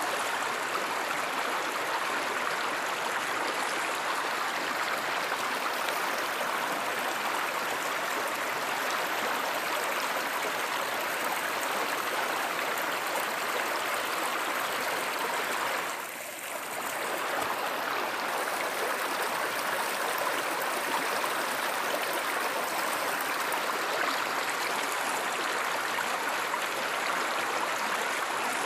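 Steady rush of a flowing river, an even wash of water noise, with a brief dip in level a little past halfway through.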